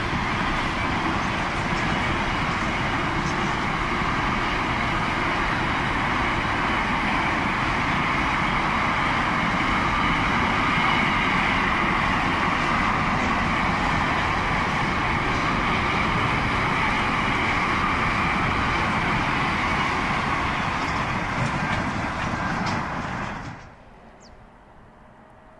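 Container wagons of a long freight train rolling past on steel rails: a steady rumble of wheels and rail noise. It cuts off suddenly about 23 seconds in, leaving only a faint background.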